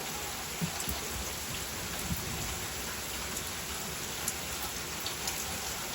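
Heavy rain falling steadily, with a few sharper drop taps standing out now and then.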